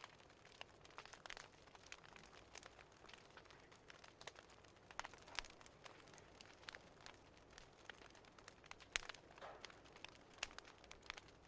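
Fireplace fire crackling: faint, irregular snaps scattered throughout.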